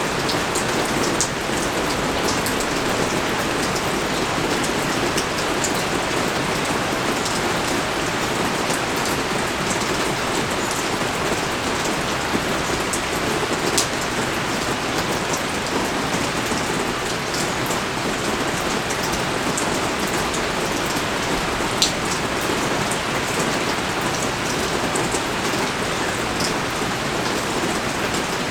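Pouring rain falling steadily, a dense even hiss dotted with sharp individual drop hits. A couple of the hits stand out louder, one about halfway through and one later on.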